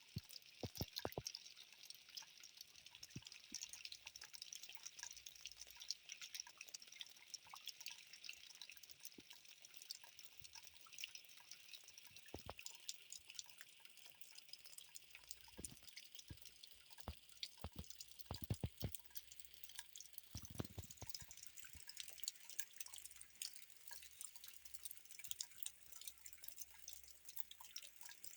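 Rain falling, heard as a faint, steady patter of many fine drops with water dripping. A few heavier drops or knocks stand out now and then.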